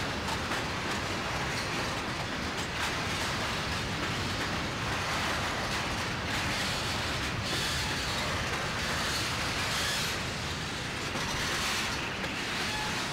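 A train rolling past on the rails: the steady rumble and rattle of railroad cars, with faint clicks of wheels over the track.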